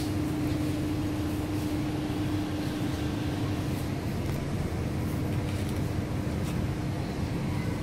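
Steady hum and hiss of an MTR South Island Line S-Train standing at the platform with its air conditioning and onboard equipment running. A steady drone weakens about halfway through.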